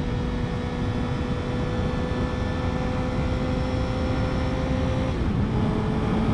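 Honda CBR1000RR sport bike's inline-four engine running at a steady cruising speed over low wind and road rumble. The engine note drops slightly about five seconds in, then holds steady.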